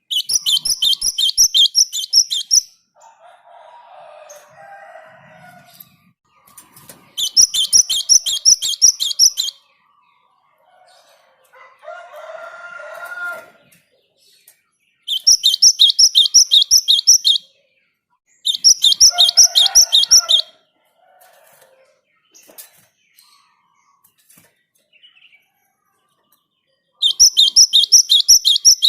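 Java sparrow singing: five loud bouts, each about two seconds of fast, evenly repeated high chipping notes, at roughly four or five notes a second. Between some bouts come quieter, lower warbling phrases.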